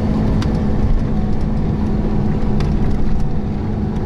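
Transfer bus running, heard from inside the cabin: a steady low engine drone with a constant hum.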